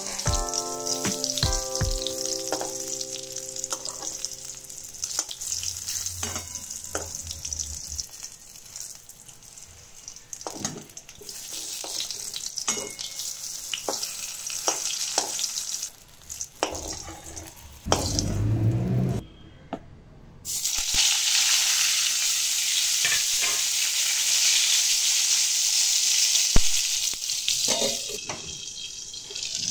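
Eggplant halves sizzling as they fry in hot oil in a kadai, with a spatula clicking and scraping against the pan. The sizzle grows louder in the second half, and a single sharp clank comes near the end as a steel lid is set on the pan.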